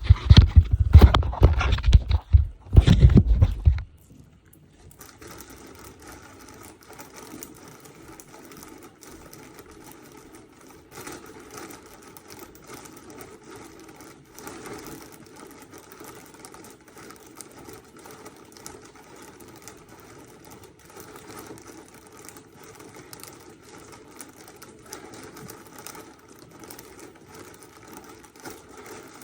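Loud knocks and plastic rustling for about four seconds as the cleanout cap is worked open inside a tied-on trash bag. Then a faint, steady pattering rush follows: backed-up sewer water draining out of the cleanout into the bag.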